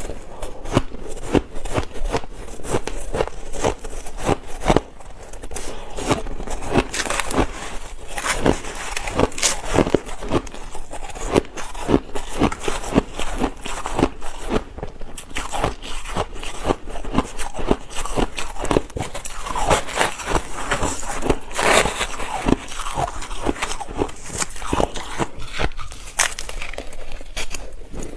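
Ice being bitten and chewed close to the microphone: a dense run of crisp crunches and crackles, one after another without a break.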